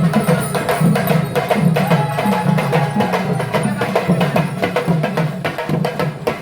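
Traditional percussion ensemble drumming a fast, dense rhythm of rapid strikes, with a brief held instrumental tone about two seconds in.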